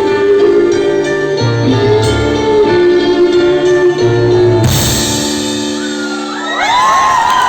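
Live band music with a pulsing bass playing its closing chords, a final crash ringing out and fading about two-thirds of the way in. Near the end an audience bursts into cheering, screams and whistles.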